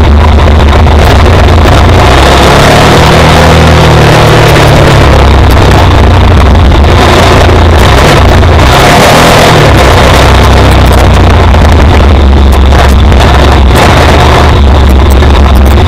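Motorcycle engine running very loudly while riding a rough dirt track. Its pitch rises and falls about three to five seconds in, and it eases off briefly around nine seconds in.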